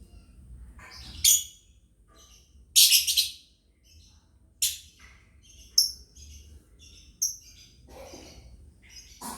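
Lovebirds chirping: five loud, sharp, high-pitched calls, the longest about three seconds in, with softer chattering chirps between them.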